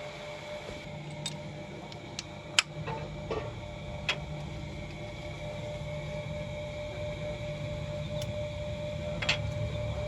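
A few sharp knocks and clicks, about six spread irregularly, the loudest about two and a half seconds in, over a steady low hum with a faint steady tone.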